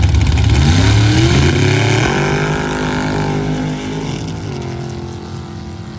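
Drag racing engine on a sand drag strip revving up in a rising pitch, holding a steady high note for about two seconds, then dropping off and fading away.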